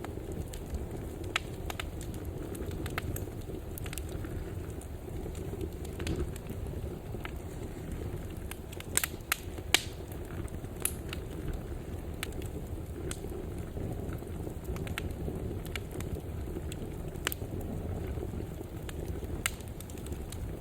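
Wood fire burning in a fireplace: a steady low rumble of flame with scattered sharp crackles and pops, a few louder pops about nine to ten seconds in.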